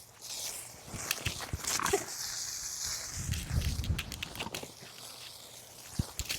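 A German Shepherd scampering and snapping at the spray from a garden hose: scattered footfalls and mouth snaps, with a short stretch of water hiss about two seconds in.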